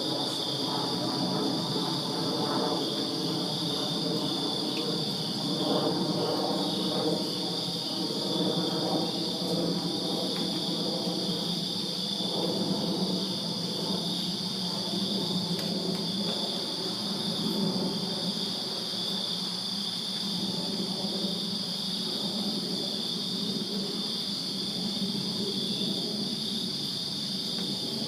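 A chorus of crickets chirping steadily in a high, unbroken drone, with a fainter low rumble underneath.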